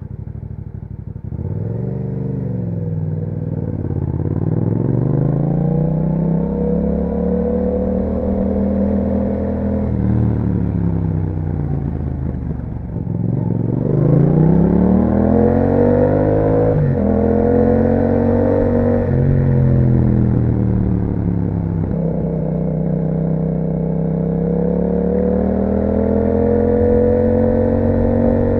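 2021 Yamaha MT-07's parallel-twin engine through an Akrapovic exhaust while riding. The revs rise and fall several times, with sudden drops in pitch at gear changes partway through.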